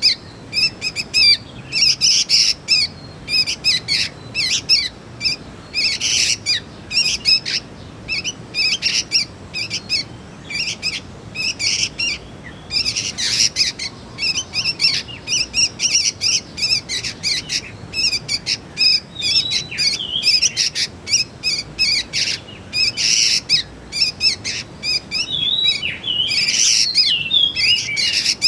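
Young sooty-headed bulbuls (kutilang) calling: a dense run of rapid, high chirps, with a few short gliding whistled notes about two-thirds of the way through and again near the end.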